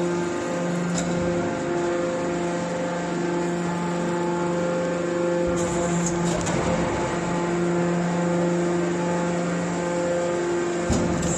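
Hydraulic scrap metal baler running, its pump motor making a steady hum, with a few sharp metal knocks.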